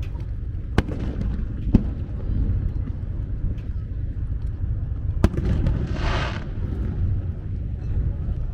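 Aerial fireworks shells bursting over the sea: three sharp bangs, about a second in, near two seconds and a little past five seconds, over a steady low rumble. A brief hiss follows shortly after the last bang.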